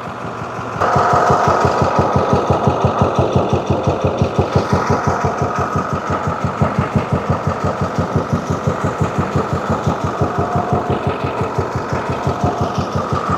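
2014 International MaxxForce diesel engine idling with an uneven, pulsing beat of about six or seven pulses a second, which gets louder about a second in. The unevenness is the engine's cylinder misfire.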